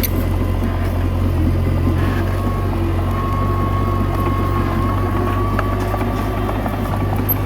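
Komatsu D21A bulldozer's diesel engine running steadily under load, with a thin steady whine above it.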